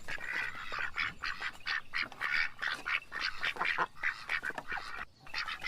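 Ducks quacking: a quick run of many short calls, several a second, with a brief pause near the end.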